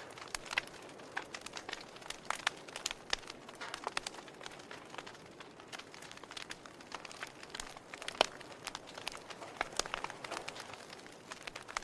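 Wood fire in a fireplace crackling: irregular sharp pops and snaps over a soft steady hiss, with one louder snap about eight seconds in.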